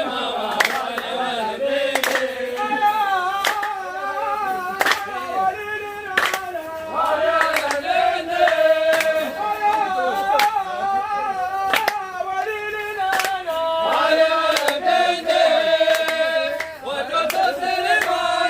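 A group of people singing a melody together, with sharp hand claps about once a second keeping time.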